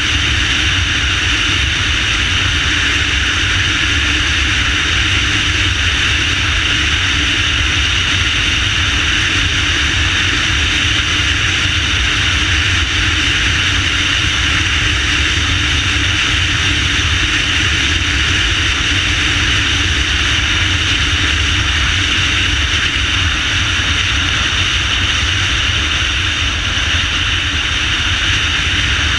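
Motorcycle ridden at a steady pace: engine running under a continuous rushing noise with a low rumble, unchanging throughout.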